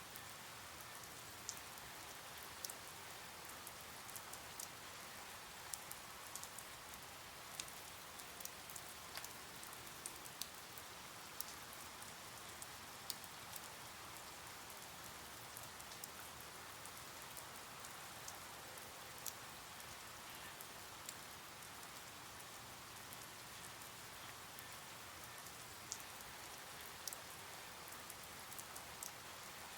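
Steady, soft rain ambience: an even hiss of rainfall with scattered sharper taps of individual drops at irregular intervals.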